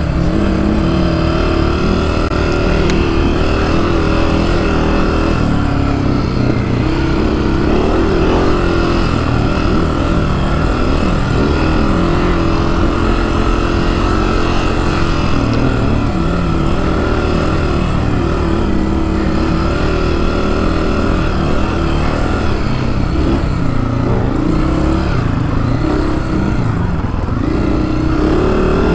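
Honda CRF250F's single-cylinder four-stroke engine running while the dirt bike is ridden on a trail, its pitch rising and falling again and again as the throttle is opened and closed.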